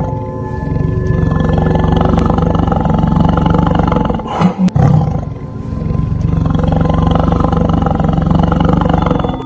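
Tiger roaring in long, loud stretches, with a brief break about four and a half seconds in; a dubbed-in roar sound effect.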